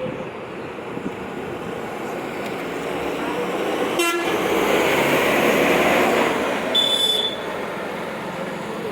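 Trucks passing on a road, the engine and tyre noise swelling as one goes by, with a brief sharp toot about four seconds in and a short, high horn toot near seven seconds in.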